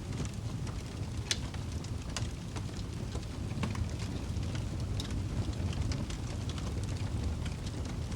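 Wood fire burning in a fireplace: a steady low rumble of flames with irregular crackles and pops from the burning logs, one sharper pop a little over a second in.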